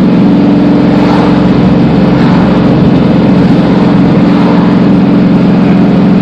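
A 1998 Camaro Z28's V8 engine running steadily under way while the car is driven, a loud, even engine drone.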